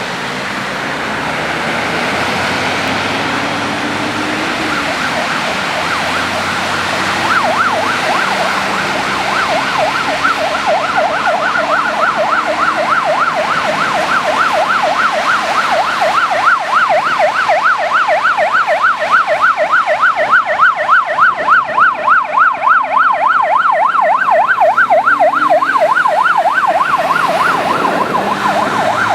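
Siren of a Mercedes-Benz Atego 1329AF fire engine on an emergency run, sounding a fast up-and-down yelp over engine and road noise. It grows louder and clearer from about seven seconds in.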